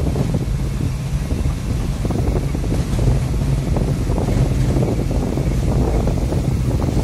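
UD Trucks Nissan Quester heavy truck's diesel engine running steadily while hauling about 30 tonnes of concrete poles, with a constant low hum and road and wind noise.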